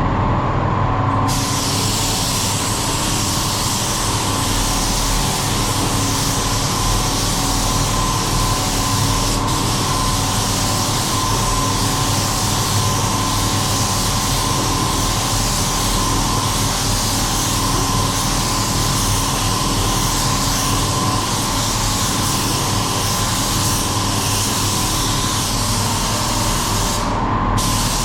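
Paint spray gun hissing steadily as it sprays, with a steady machine hum underneath. The hiss starts about a second in and breaks off briefly near the end.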